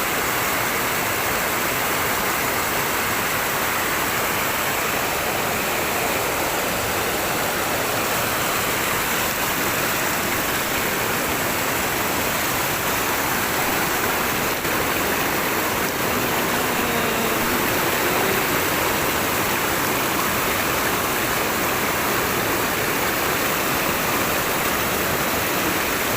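Mountain stream rushing steadily, an even, unbroken sound of running water.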